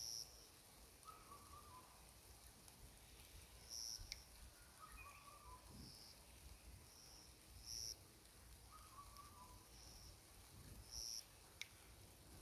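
Forest birds calling, faint: short high chirps repeated every second or two, and a lower falling phrase roughly every four seconds, with a couple of sharp clicks.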